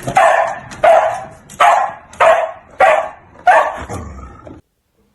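A dog barking in an even series of about six loud barks, roughly one every two-thirds of a second, cutting off suddenly near the end.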